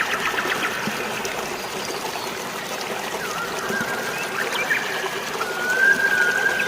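Steady rush of flowing water with birds chirping over it: a quick flurry of chirps right at the start, a few scattered calls later, and a long steady whistled note from about five and a half seconds in.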